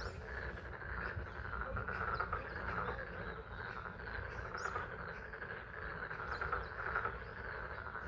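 Chorus of pond frogs calling steadily in spring rain, with a few short bird chirps over it.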